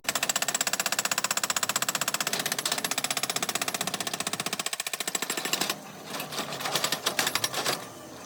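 Rapid machine hammering, about a dozen sharp strikes a second, steady for about five and a half seconds and then weaker and uneven.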